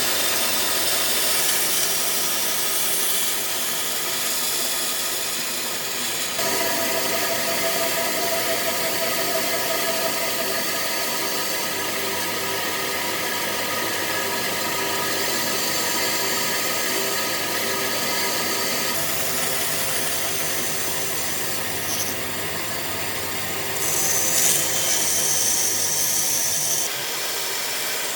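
Electric power tool working wood: a steady motor whine over a rough grinding, rubbing noise. The sound shifts abruptly in pitch and character several times, about six seconds in, around nineteen seconds and near the end.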